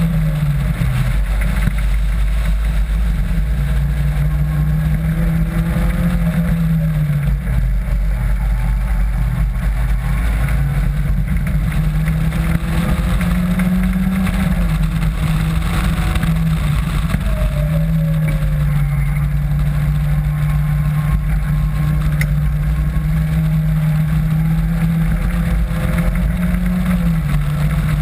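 Caterham Classic sports car's engine pulling hard on track, heard from the open cockpit. The note climbs steadily and drops back sharply about every three to ten seconds as the driver shifts up or lifts for corners, over a steady low wind rumble.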